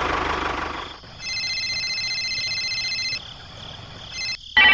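A small engine running, which stops about a second in, followed by a steady, high, beep-like electronic tone lasting about two seconds.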